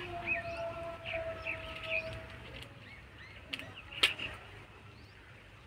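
Small birds chirping, short high chirps scattered through. A long steady held tone fades out about two seconds in, and there is a single sharp click about four seconds in.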